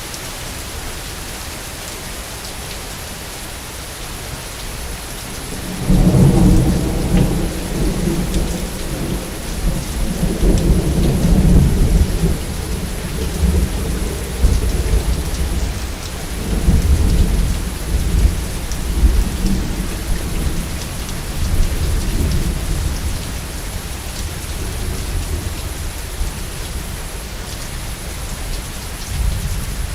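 Steady heavy rain, with a long roll of thunder that breaks in suddenly about six seconds in. The thunder rumbles on in waves and dies away near the end.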